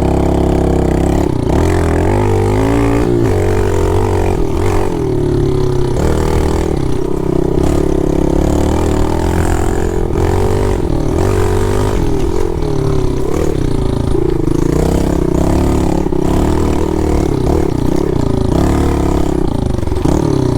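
Pit bike engine running while being ridden, its pitch rising and falling again and again as the throttle is opened and closed.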